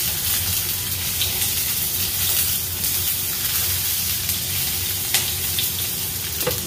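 Garlic, onion and green onion sizzling steadily in hot olive oil in a skillet as they are stirred with a silicone spatula. A couple of sharp taps of the spatula on the pan come near the end.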